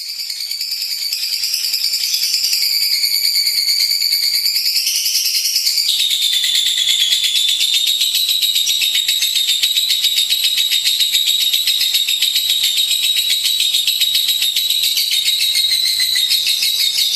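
Lovebird singing a long, unbroken, high-pitched chattering trill. The trill wavers up and down in pitch for the first six seconds, then settles into a steady run at one pitch.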